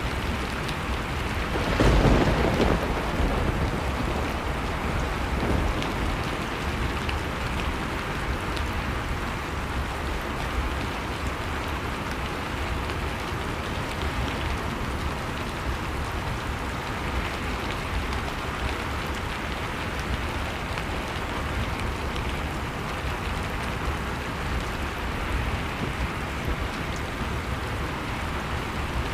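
Wood fire crackling over steady blizzard wind, with a louder low burst about two seconds in.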